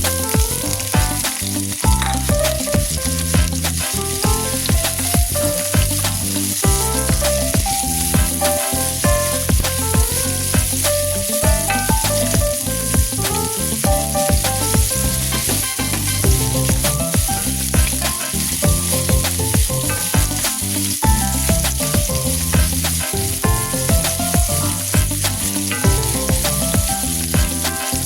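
Chicken pieces frying in hot oil, a steady sizzle throughout, over background music with a melody and a steady low beat.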